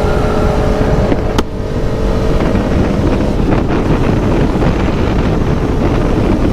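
Motorcycle engine running at a steady speed while riding, with wind noise on the microphone. A single sharp click comes about one and a half seconds in, and after that the engine's steady tone gives way to a dense rumble.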